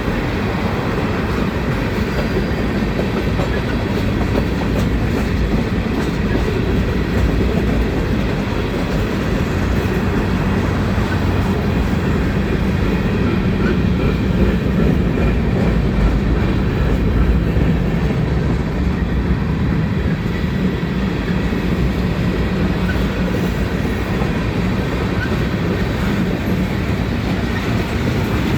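Freight cars of a manifest train rolling past at steady speed, with an even, continuous rumble of steel wheels on the rails.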